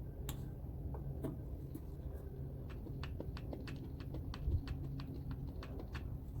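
Light, irregular clicks and ticks, several a second, from working a hand grease gun on a tractor's grease fittings, over a low steady hum.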